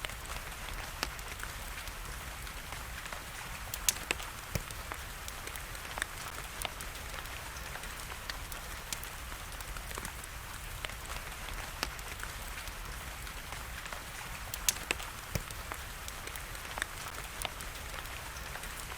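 Steady hiss of rain with a wood fire crackling over it in scattered sharp pops, the loudest about four seconds in and again near fifteen seconds.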